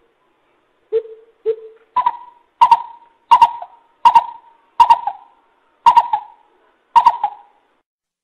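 A coucal (bubut) calling in a series of deep, hollow hoots. Two lower notes come about a second in, then about six higher notes follow at roughly one every 0.7 seconds, each starting with a sharp click.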